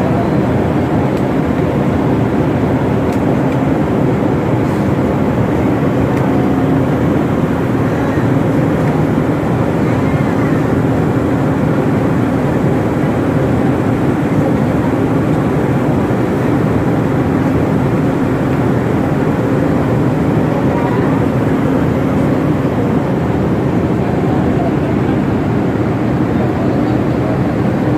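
Steady drone of a passenger ship's engines and machinery heard from on board, an even hum with a constant low tone that does not change.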